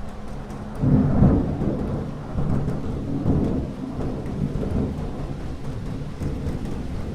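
Thunder rumbling over steady rain: a deep roll breaks in about a second in and rolls on in waves, fading and swelling.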